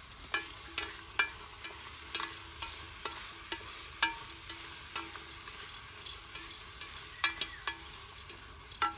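Vegetables frying in an oiled pot over a campfire, with a faint sizzle and a utensil stirring them, knocking and scraping irregularly against the metal pot, some knocks briefly ringing.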